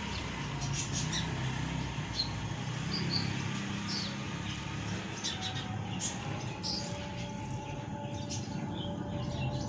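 Small pet birds chirping, short high chirps scattered through, over a steady low background hum.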